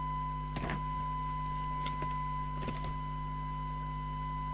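Steady 1 kHz audio test tone on a CB receiver under SINAD testing, over a low mains hum, with a few short clicks about half a second in and near three seconds.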